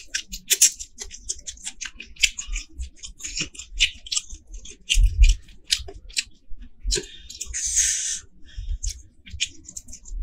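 Close-up eating sounds of masala prawns being chewed: many sharp, crisp wet clicks and crackles. About seven seconds in comes a longer squishy, tearing stretch as the prawns are pulled apart by hand, with a few low thumps in the middle.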